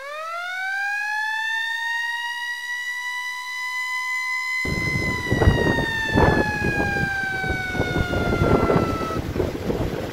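A siren winds up quickly from a low pitch to a high, steady wail, holds it, then slowly slides down and fades. About four and a half seconds in, gusty wind buffeting the microphone and surf crashing cut in abruptly and continue under the falling wail.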